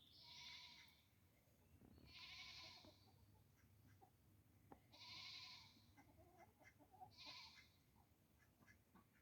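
Goat bleating four times, faintly, each call about a second long with pauses between.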